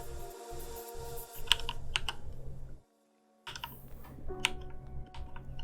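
Computer keyboard keys clicking in scattered, irregular taps over a faint steady background hum. The sound cuts out completely for about half a second midway.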